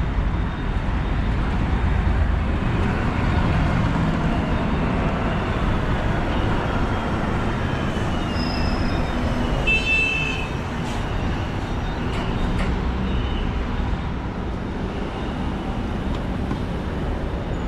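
Road traffic: a steady rumble of passing cars, buses and scooters, with a short high-pitched beep about halfway through.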